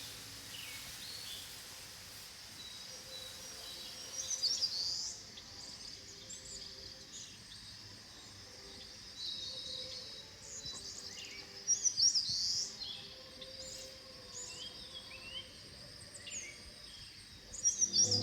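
Wild birds calling in a forest: short chirps and trills that come and go, loudest about four seconds in, around twelve seconds and near the end, over a steady high-pitched drone.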